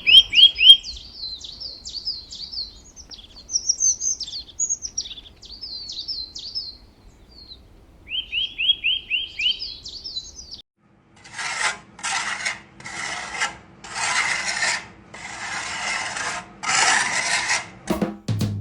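Small birds chirping in quick runs of repeated, downward-sweeping notes for about ten seconds. Then six rasping strokes, each half a second to a second long, from filing or sanding a piece of material.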